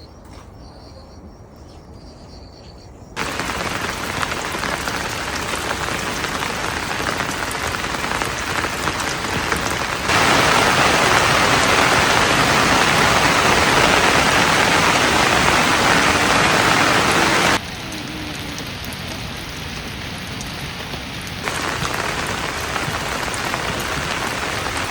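Rain falling, an even rushing hiss that comes in suddenly about three seconds in after a quiet start. It gets abruptly louder around ten seconds, drops back sharply near eighteen seconds and steps up again a few seconds before the end, in clean jumps rather than gradual swells.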